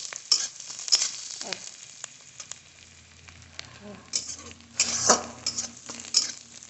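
Onions, garlic and curry leaves sizzling in hot oil in a kadhai while a spatula stirs and scrapes them around the pan. The scraping comes in bursts, about a second in and again around four to five seconds in, with the sizzle quieter in between.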